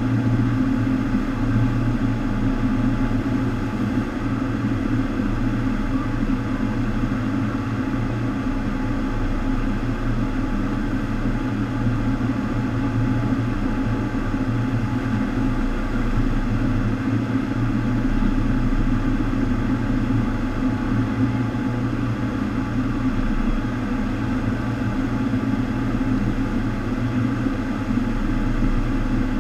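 FlowRider sheet-wave machine running: a steady rush of water pumped over the ride surface, with a constant low pump hum.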